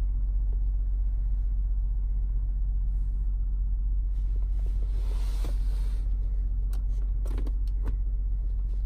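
Steady low rumble inside the cabin of a 2010 Lexus RX 350 with its 3.5-litre V6 idling. A brief rubbing noise comes about five seconds in, and a few light clicks near the end as a hand works the centre console's wood-trim lid.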